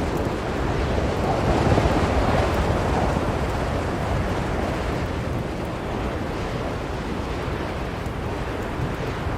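Strong blizzard wind, a dense steady rush that swells for a moment a couple of seconds in, then eases back.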